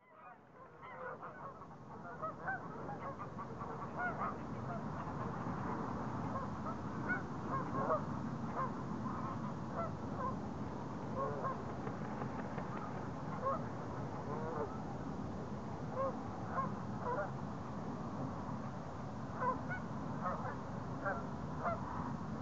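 Greylag geese honking: many short calls, scattered and overlapping, over a steady low background noise. The sound fades in over the first couple of seconds.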